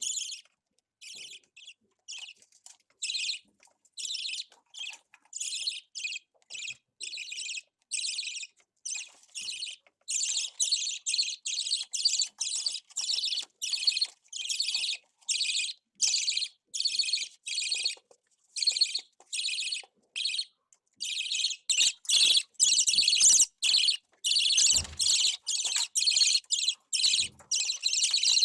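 Budgerigar chick giving short, raspy chirps one after another, about two a second at first, then faster and louder after about ten seconds. A few soft knocks come in near the end.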